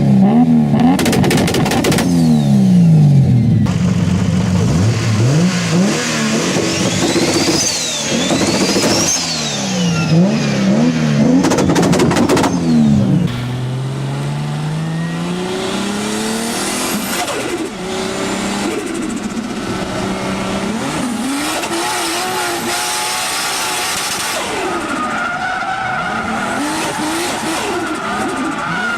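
Performance car engines revving hard, the pitch climbing and falling again and again, with sharp exhaust bangs in two clusters. About thirteen seconds in the sound cuts to a car driven hard with its tyres squealing, quieter and steadier.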